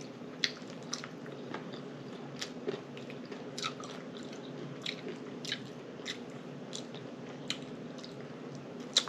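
A person chewing a mouthful of chicken taco salad close to the microphone, with wet mouth clicks and lip smacks every half second to a second over a faint steady hum.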